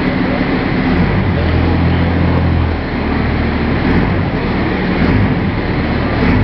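Pulling truck's engine running loudly, a steady low drone that shifts in pitch between about one and three seconds in.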